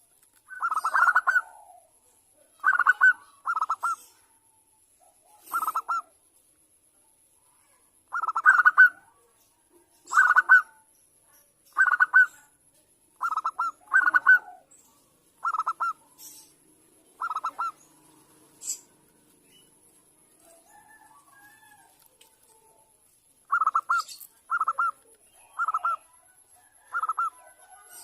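Zebra dove (perkutut) cooing: short, rapidly pulsed coo notes, single or in pairs, repeated every second or two. There is a pause of several seconds in the second half before the notes resume.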